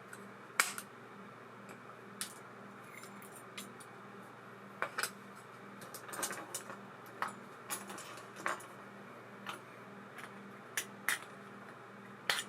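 Small metal parts clinking and clicking on a work surface, about a dozen irregular light knocks, as a baitcasting reel is worked on. A faint steady hum lies underneath.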